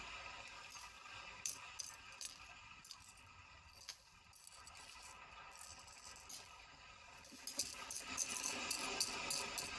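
Small hard objects clinking and rattling as they are handled, light and scattered at first and busier near the end.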